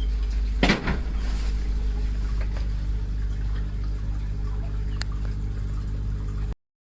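Car engine idling with a steady low hum, a single knock about a second in and a light click near the end; the sound cuts off abruptly.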